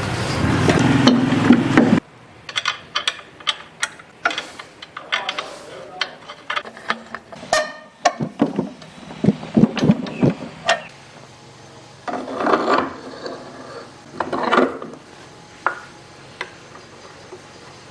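A power tool runs for about two seconds and cuts off suddenly. Then come irregular clicks and knocks of parts being handled and fitted, with two short noisy bursts near the end.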